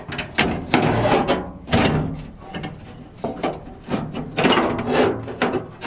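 Irregular metal clanking and scraping as the window regulator is worked loose inside the steel door of a Ford F-100 pickup, a series of loud knocks and rasps with no steady rhythm.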